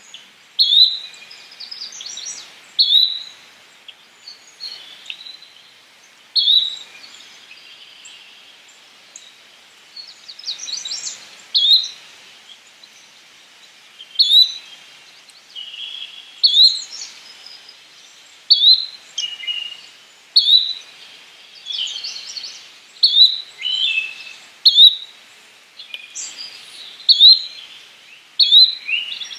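Yellow-bellied flycatcher calling over and over, a short rising note every two to three seconds, with softer twittering from other birds in between.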